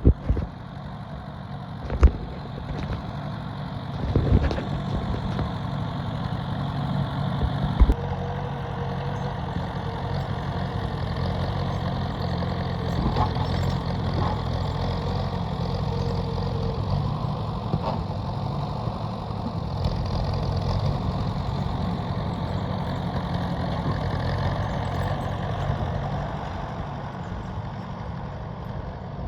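Ford 800 tractor's four-cylinder engine running steadily while pushing snow, with a few sharp clunks in the first eight seconds.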